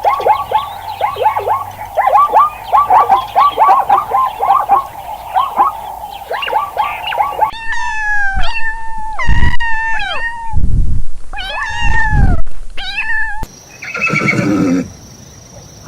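Calls of several different animals in quick succession. First comes a rapid flurry of short chirping calls for about seven seconds. Then a series of short calls that rise and fall in pitch, with a few low thuds among them, and near the end a brief call of another kind.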